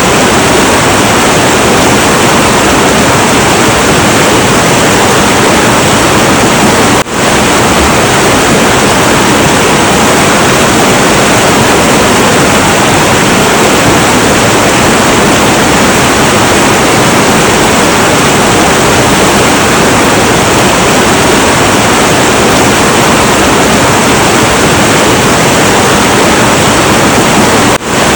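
Heavy, turbulent river water rushing in a loud, steady roar, dipping briefly twice, about a quarter of the way in and near the end.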